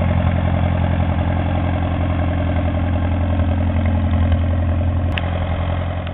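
1951 Allis-Chalmers B tractor's four-cylinder engine running steadily with a low, even note.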